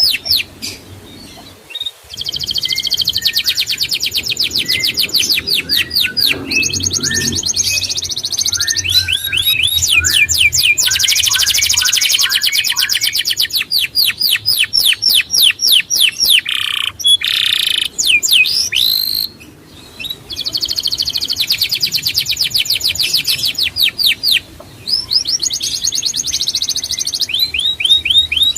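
A songbird singing a long, fast song of rapidly repeated high, sweeping notes alternating with dense trills, with brief breaks about two seconds in and again near the twenty-second mark.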